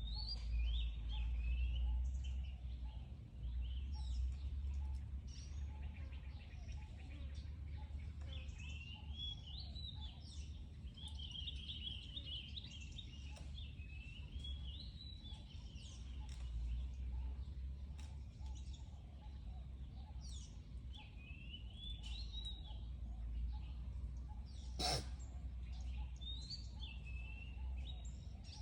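Outdoor ambience of birds chirping in short high calls over a steady low rumble, with one sharp click about 25 seconds in.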